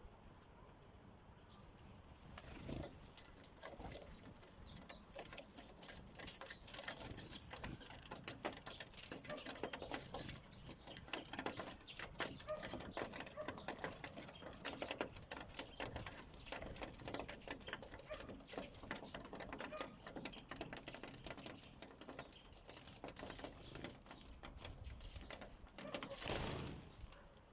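Sparrows pecking at seed on a feeder: a rapid, irregular patter of beak taps, with brief wing flutters and a louder flurry near the end.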